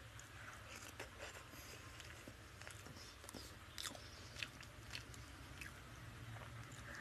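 Faint wet chewing and lip-smacking of a mouthful of fish curry and rice, with fingers squishing the fish and rice on the plate, heard as scattered small clicks over a steady low hum.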